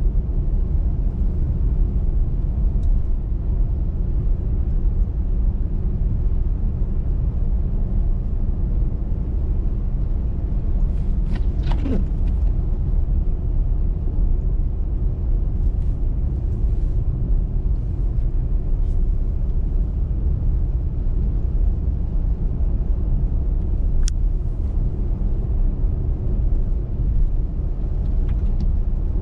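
Car driving on a motorway: a steady low rumble of engine and tyre noise. A brief falling whine comes about eleven seconds in, and a single sharp click near the end.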